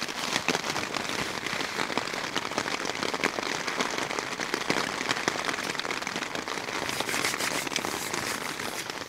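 Heavy rain falling on tent fabric: a dense, steady patter of countless fine drop impacts.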